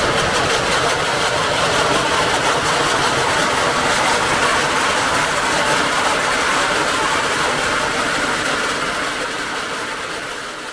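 Engine of harvest farm machinery running steadily, fading away near the end.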